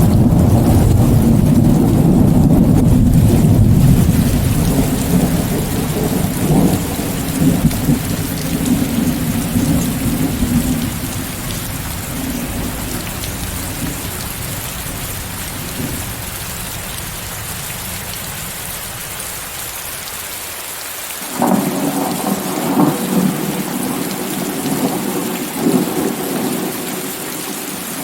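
Steady rain with thunder, from a rain-and-thunder recording mixed with white noise. A long low rolling rumble at the start fades away over about ten seconds, leaving the rain hiss, then a second, crackling peal of thunder comes about three quarters of the way through.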